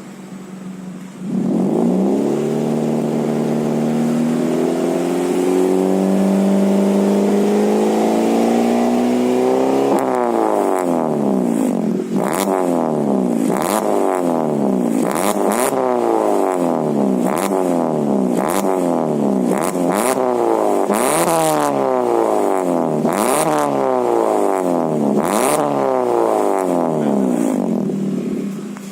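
Suzuki Ertiga GL four-cylinder petrol engine revving through an Alpino S02 aftermarket muffler with the resonator deleted and a stock header. The revs climb slowly and steadily for about eight seconds, then come as a long series of quick rev blips, each rising and falling, until it settles near the end.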